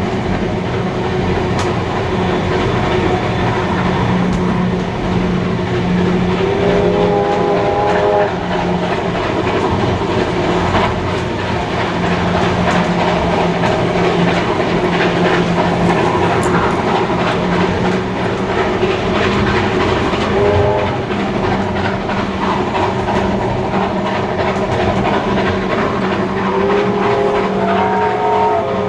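Moving train with a steady rumble and clickety-clack of wheels on rail, and a steam locomotive's multi-note whistle sounding three times: a blast of about a second and a half about a quarter of the way in, a short toot about two-thirds through, and a longer blast near the end.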